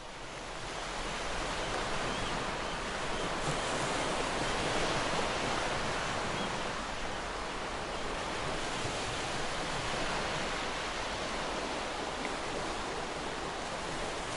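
Ocean waves breaking and washing on a beach, a steady rushing surf that swells in over the first couple of seconds and then holds even.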